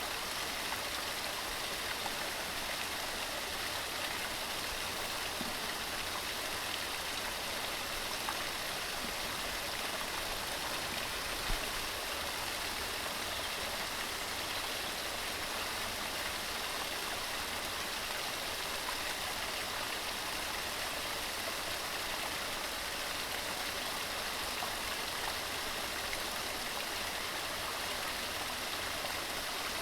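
A small waterfall tumbling over rocks: a steady, even rush of falling and splashing water.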